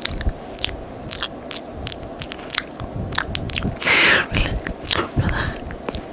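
Close-miked ASMR mouth sounds: a quick run of wet, sticky tongue and lip clicks and smacks, with a louder breathy hiss about four seconds in.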